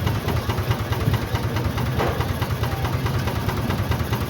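Case steam engine running steadily, a low, even rhythmic beat.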